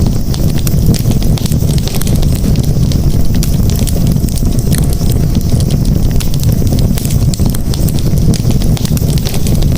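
Campfire burning, with many small irregular crackles and pops over a steady low rumble.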